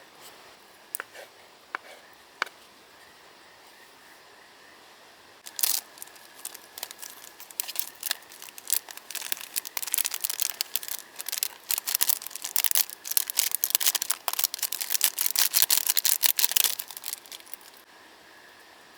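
Crinkling and rustling, as of packaging being handled. It goes in a dense run from about five seconds in until shortly before the end, after three or four light clicks in the first few seconds.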